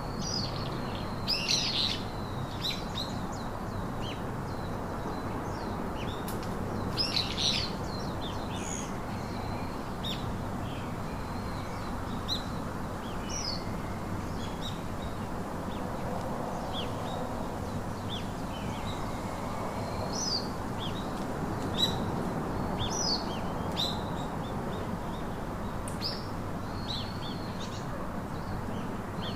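Several wild birds chirping and calling in short, scattered notes, with louder bursts of song about a second and a half in and again around seven seconds. Under them runs a steady background rush.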